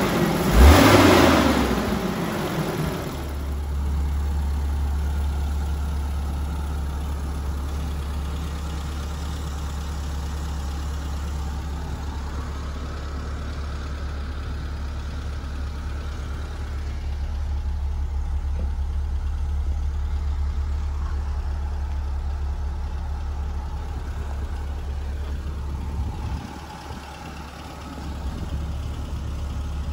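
BMW E30 318i's four-cylinder engine blipped twice by hand at the throttle, then settling into a steady idle.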